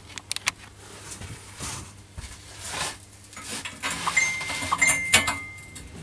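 Clinks and knocks of steel tubing being handled and fitted against a welded steel mini bike frame, with a brief high steady tone about four seconds in.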